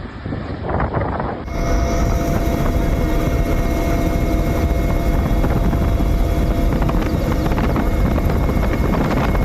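Helicopter flying close, a loud steady rotor and engine noise that comes in abruptly about a second and a half in.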